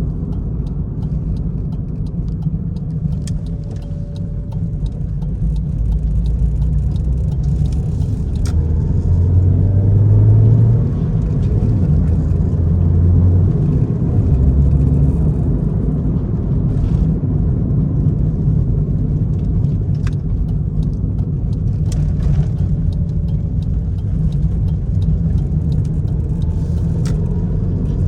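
A 1999 Honda Civic's 1.6-litre four-cylinder engine running on a road test drive, with a steady low rumble of road noise. The engine note rises and falls as it accelerates through the gears about a third of the way in.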